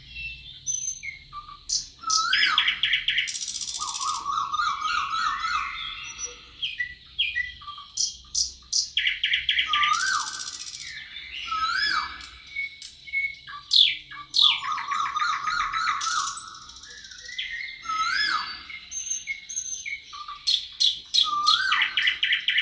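Several birds singing together in forest, their songs overlapping: fast trills and rattling phrases, with a short whistled note that rises and falls, repeated every few seconds.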